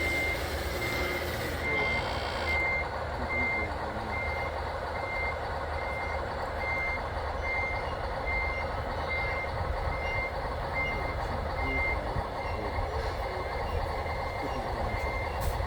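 An RC construction machine's reversing alarm beeping steadily, about two high beeps a second, over a steady background of machine noise.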